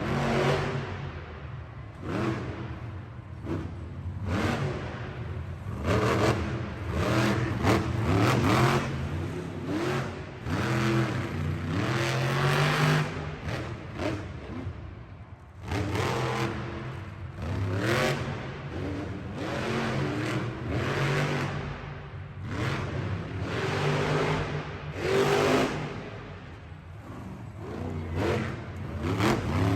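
Monster truck engine revving hard over and over, its pitch climbing and falling back with each surge of throttle.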